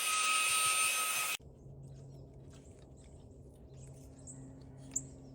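Small handheld cordless car vacuum's motor running with a high whine, then cutting off suddenly about a second and a half in. Faint high chirps and a low hum follow, with a single click near the end.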